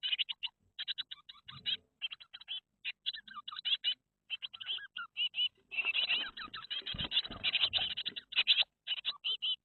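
Eurasian blue tit nestlings giving rapid, high-pitched begging cheeps in bursts, with brief pauses, and some rustling and scratching in the nest.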